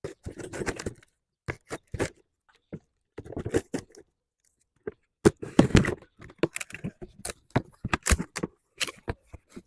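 A box of exhaust headers being opened and its packing handled: a run of irregular scrapes, rustles and knocks with short pauses between them.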